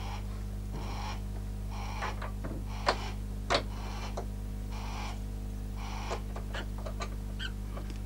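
A bird calling in short repeated bursts about once a second, with a few sharp clicks, over a steady electrical hum.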